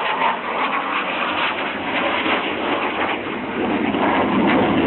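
F-16 fighter jet's engine noise, a loud continuous rushing sound that sinks lower in pitch in the last second or so as the jet passes.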